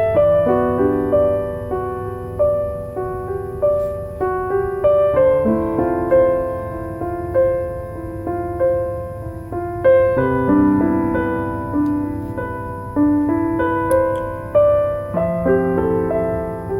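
Slow, gentle solo piano music: single notes and soft chords struck one after another and left to fade.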